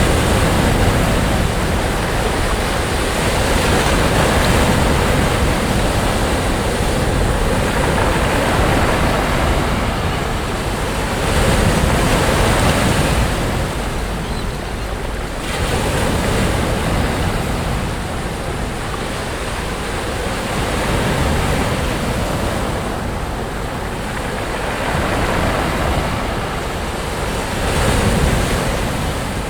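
Sea waves breaking on a beach: steady surf that swells and eases every few seconds as each wave comes in, with a low wind rumble on the microphone underneath.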